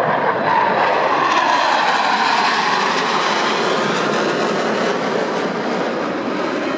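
Jet engine roar of T-50 jets making a display pass, the pitch sliding downward over the first couple of seconds as they go by.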